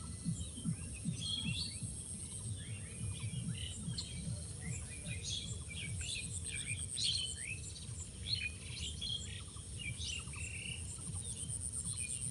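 Several birds chirping and calling in quick, overlapping phrases, over a steady high-pitched pulsing insect trill and a low rumble underneath.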